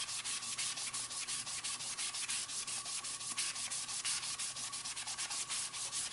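Wet magic eraser (melamine foam sponge) scrubbing an EVA foam fishing rod grip to lift stains: a steady rubbing swish in quick back-and-forth strokes, several a second.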